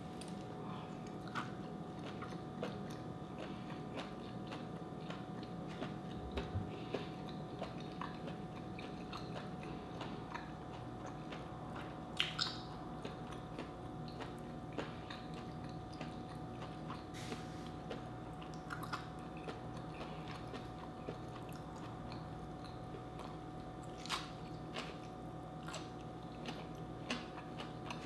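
Close-miked chewing and biting of baby octopus and lightly boiled vegetables left a little crunchy, with a few sharp crunches, the loudest about twelve seconds in.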